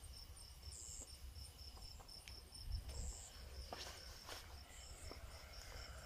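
Crickets chirping in a fast, steady pulsing trill, faint, with a few soft footsteps on the road and a low rumble of wind on the microphone.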